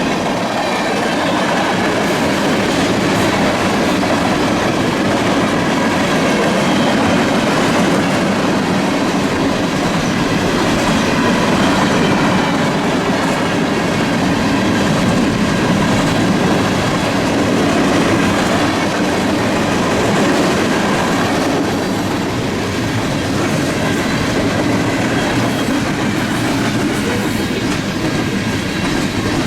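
Freight train cars rolling past at speed: a steady, loud rumble and clatter of steel wheels on the rails, with a faint high squeal from the wheels.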